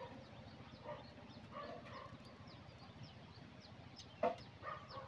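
Faint bird calls: a run of short, quick descending chirps scattered through, with a single sharp click about four seconds in.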